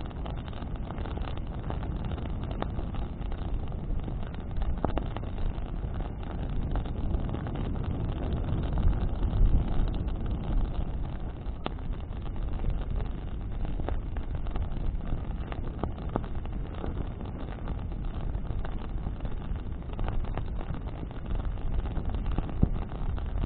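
Bonfire of branches burning in the wind: a steady low wind rumble on the microphone, swelling about nine seconds in, with a few sharp crackles from the burning wood.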